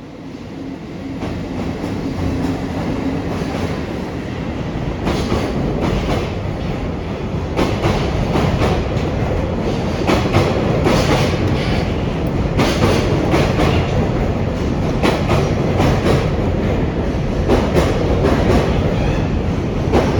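Container freight train hauled by an EF65 electric locomotive running through the station without stopping. It builds up quickly over the first couple of seconds, then holds a steady heavy rumble with irregular clacking as the wagons' wheels pass over the rail joints.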